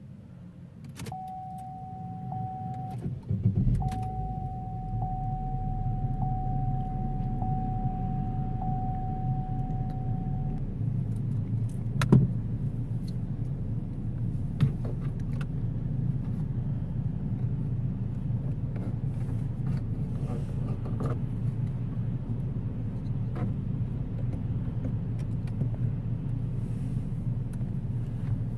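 Chevrolet Cruze engine switched off, then restarted with the ignition turned back on: it cranks and catches a few seconds in, then idles steadily. A steady electronic tone sounds for several seconds around the restart, and a single click comes near the middle.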